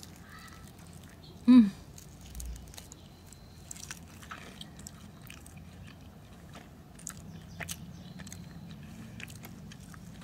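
A person chewing a bite of chicken wing, with faint small wet mouth clicks throughout. About one and a half seconds in there is a brief, loud vocal sound from the eater.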